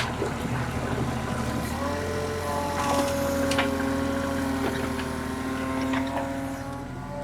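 Excavator's diesel engine running and stepping up to a higher, louder pitch about two seconds in as the hydraulics take load, with a few sharp metallic clanks over it.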